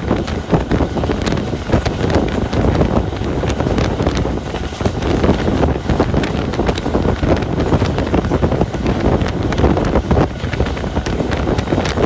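Wind buffeting the microphone over the steady rumble and rattle of a moving train, with many small clanks and clicks throughout.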